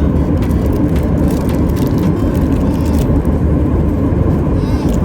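Airliner cabin noise: a steady low rumble of jet engines and rushing air heard from inside the passenger cabin.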